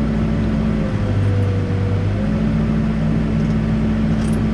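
Backhoe's diesel engine running under load while digging, its note shifting as the load changes. A hydraulic whine dips and rises over it.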